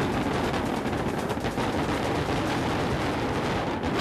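Professional fireworks fired in a rapid barrage from barge-mounted mortars: a dense, continuous run of overlapping launch reports and shell bursts, like rapid gunfire.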